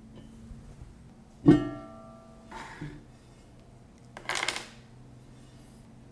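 Tableware handled: a sharp ringing clink about a second and a half in, like a ceramic dish set down, then a soft knock and a brief clattering rattle near the end, over faint background music.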